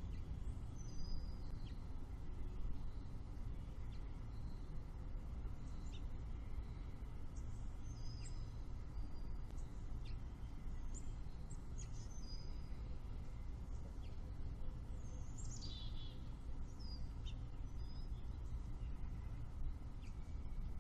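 Birds chirping and singing in short, scattered calls, with one quick descending trill about two-thirds of the way through, over a steady low rumble of outdoor background noise.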